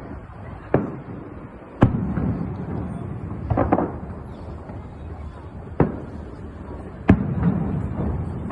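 Aerial fireworks bursting: four sharp booms, the loudest about two seconds in and near the end, each followed by a rolling low echo, with a quick cluster of smaller pops in the middle.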